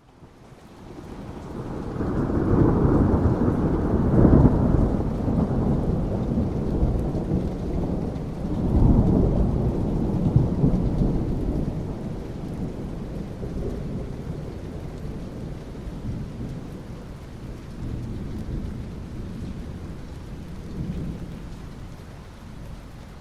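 Rolling thunder over steady rain: a long, deep rumble swells in over the first couple of seconds, peaks twice in the first half, then slowly dies away while the rain hiss carries on.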